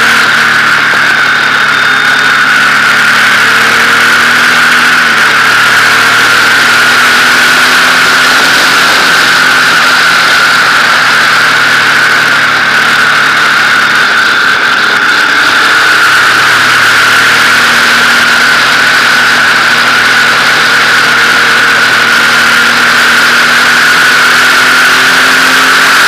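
Motorcycle engine running steadily under way, its pitch drifting slowly up and down with small changes in throttle, under a constant rush of riding noise.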